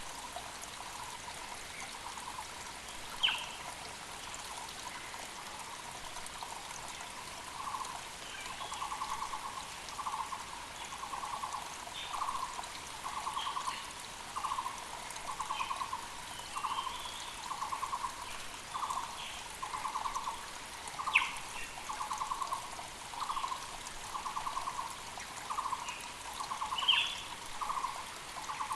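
Muller's barbets giving their repeated low trilled notes, one to two a second, growing stronger about a third of the way in, over the steady rush of a mountain creek. A few brief sharp higher calls from other birds stand out as the loudest moments.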